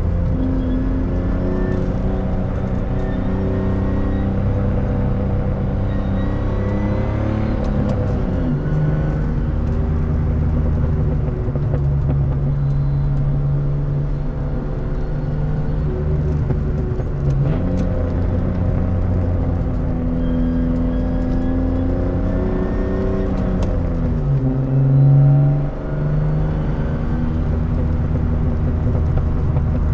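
BMW E36 328i's 2.8-litre straight-six with a loud exhaust, heard from inside the cabin while driving. The engine note climbs and falls several times as the car shifts and slows for bends, with a brief louder surge near the end. A few short pops come from the exhaust.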